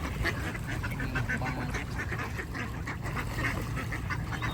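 Several ducks quacking in short, repeated calls, one after another.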